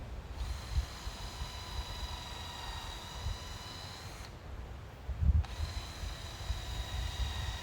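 Power drill running in two steady runs: a whine of about four seconds, a stop of about a second, then the same whine again, with low wind rumble on the microphone.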